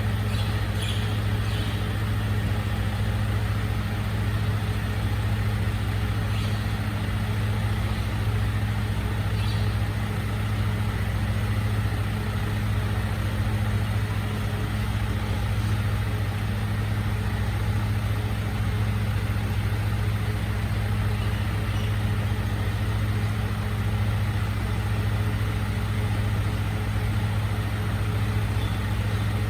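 Recycling truck's engine idling with a steady low hum that holds unchanged throughout.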